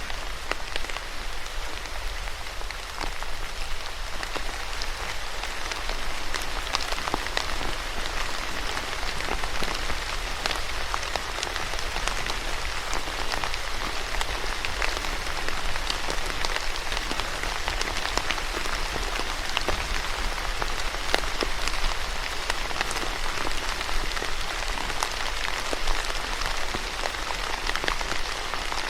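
Steady rain falling on a surface, a dense patter with many distinct drop ticks.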